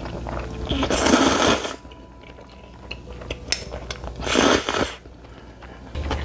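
Close-miked eating of spicy noodles: two long slurps, one about a second in and another just past four seconds, with chewing and small clicks in between.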